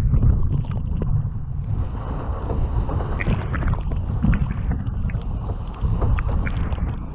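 Strong wind buffeting the microphone as a steady low rumble, with water splashing and knocking against a small sailing boat's hull.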